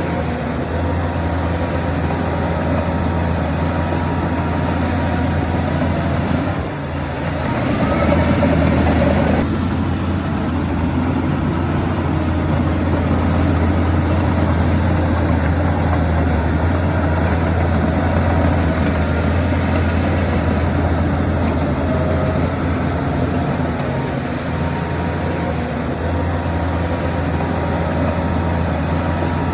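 Heavy diesel engine of earthmoving machinery running steadily, dipping briefly about seven seconds in and then working harder for a couple of seconds before settling back.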